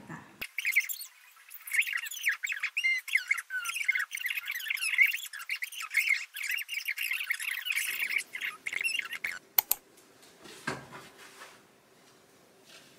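Birds chirping in quick, high, rising and falling calls for about nine seconds, then stopping; after that a faint steady hum with a couple of sharp clicks and a soft knock.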